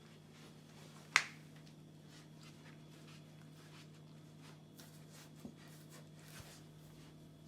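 Faint scratching and rustling of a Siberian husky puppy moving about in a cardboard box, with one sharp click about a second in and a couple of light knocks later.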